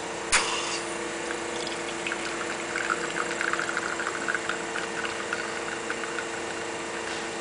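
Conti one-group espresso machine pulling a double shot: a sharp click of the shot button, then a steady hum from the machine while espresso trickles and spits into the cup from about two seconds in, tailing off near the end.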